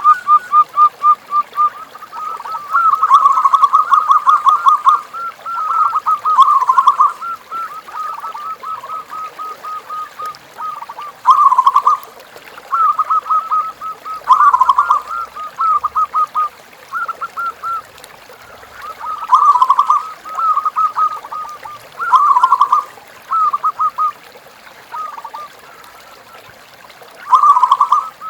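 Zebra doves (perkutut) cooing: bursts of quick, rolling coo notes repeating every second or two, some bursts much louder than others.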